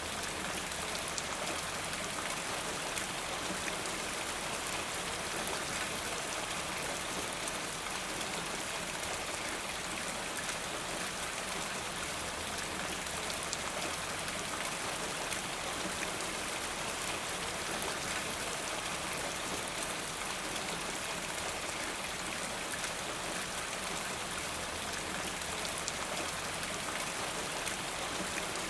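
Steady rain falling, with a dense patter of drops on a surface and no let-up or change in strength.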